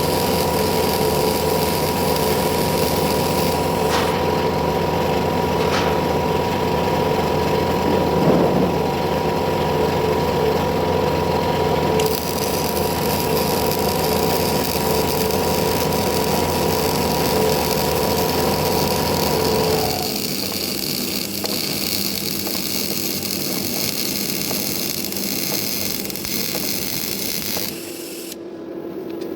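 MIG (semi-automatic) welding of steel structures: a steady crackling hiss of the arc with a constant hum, changing character about 12 seconds in and dropping quieter about 20 seconds in.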